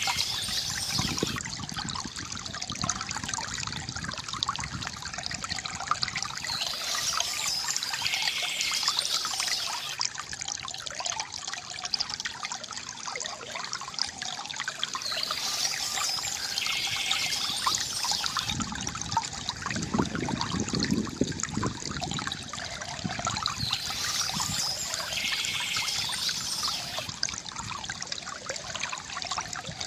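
Water from a bamboo fountain trickling and splashing steadily. A brighter, higher patch of sound comes back about every eight seconds.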